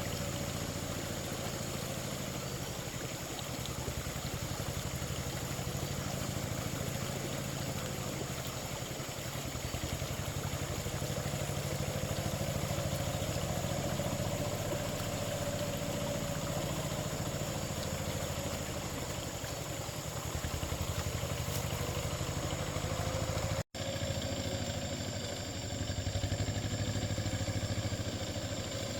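A small engine running steadily, its speed easing up and down a little, with a brief dropout near the end.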